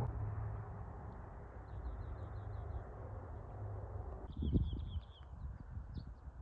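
A small bird chirping: a quick run of short high notes, then a louder run about four seconds in, followed by a few single chirps. Under it, a steady low rush drops away about four seconds in, with a low thump at that moment.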